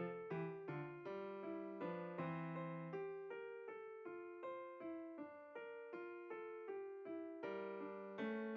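Background music: solo piano playing a gentle melody at an even pace, about two notes a second, over a simple bass line.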